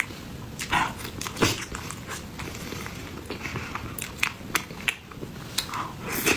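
Close-miked chewing of soft, sticky snow-skin mochi filled with cream and jam: irregular short wet clicks and smacks of the mouth, with a few longer squelches.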